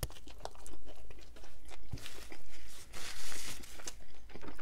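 Close-miked biting into a Subway B.M.T. sandwich and chewing it, with crunches and many sharp mouth clicks.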